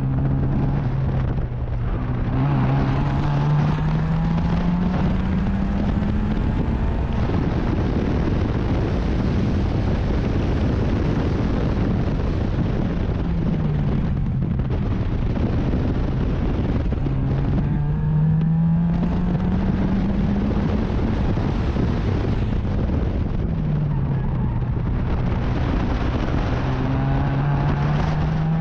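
Racing sports car engine heard on board under hard acceleration. Its pitch climbs steadily and drops back several times as the car shifts up and lifts off for corners, over a constant rush of wind and road noise.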